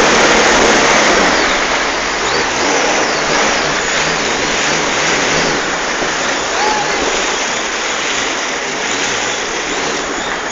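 Jet ski running at speed, its engine under a steady rush of water.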